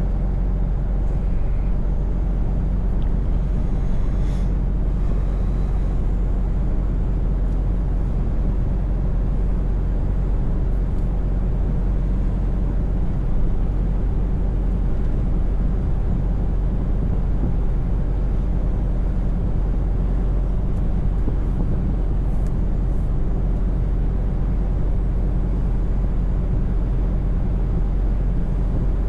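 Scania V8 truck engine running at steady revs while driving, a constant low drone with road noise.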